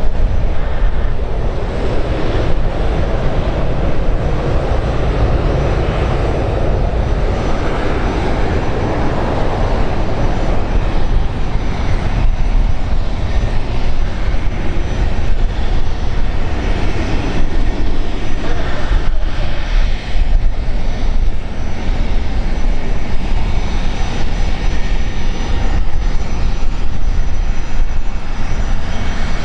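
An airliner's engines, a loud, steady noise that is somewhat fuller in the first third.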